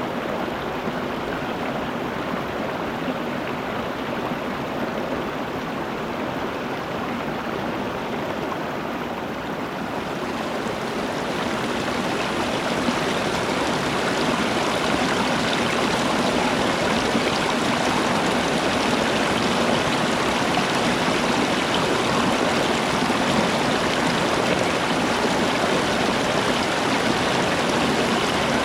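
Steady rush of running water, growing a little louder and brighter about ten to twelve seconds in.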